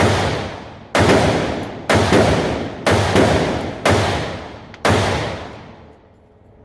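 A JP Enterprises AR-15 competition rifle firing eight semi-automatic shots at about one a second, two of them coming in quick pairs, each shot echoing and dying away over most of a second. The shots stop about five seconds in.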